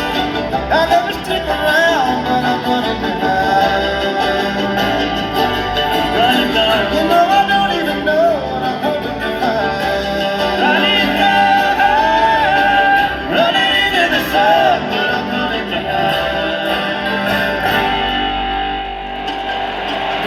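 A live bluegrass string band playing a song, with a man's singing over guitar and other plucked strings, recorded from the audience.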